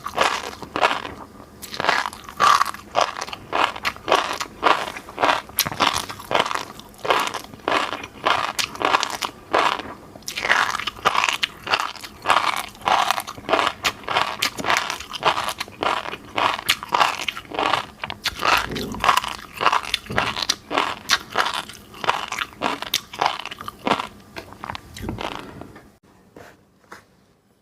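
Close-miked eating of fish roe: a dense run of small crunchy pops and wet chewing clicks that stops suddenly near the end.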